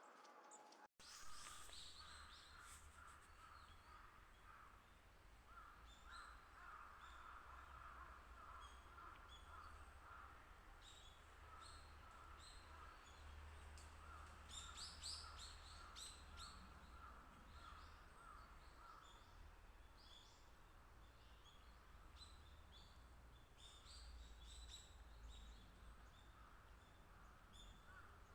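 Wild birds calling: a long run of short, evenly repeated calls with scattered higher chirps from small birds, over a steady low rumble. The sound starts after a brief break about a second in.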